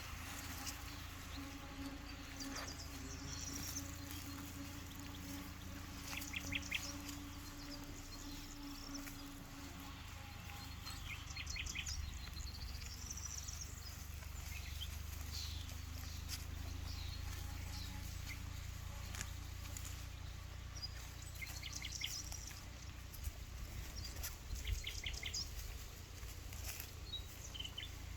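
Birds calling in the open: scattered high chirps and short whistled calls, with a few quick chattering rattles. Under them runs a steady low rumble.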